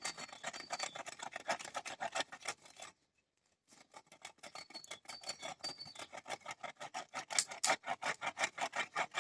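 Hand saw cutting through a wooden branch in quick back-and-forth rasping strokes. It saws in two bouts, with a short pause about three seconds in.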